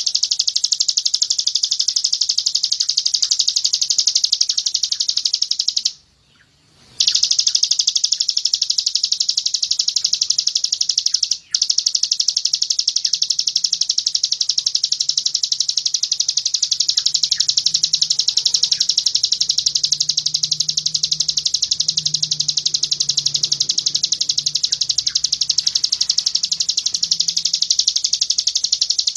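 A songbird's high, rapid-fire 'tembakan' trill: a continuous stream of very fast repeated notes, breaking off for about a second around six seconds in and dipping briefly near the middle.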